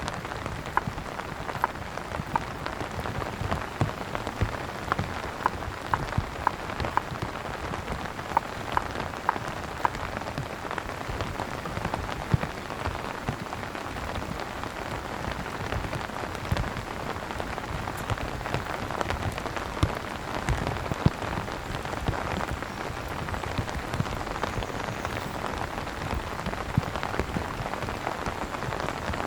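Heavy rain falling on a tent awning: a steady hiss of rain with many sharp, close drop taps, densest in the first third.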